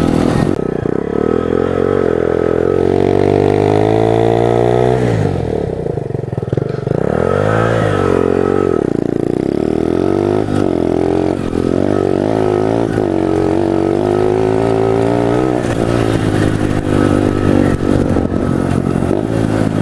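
Pit bike engine running under way, its pitch climbing in long pulls and dropping back several times as it is accelerated, shifted and let off.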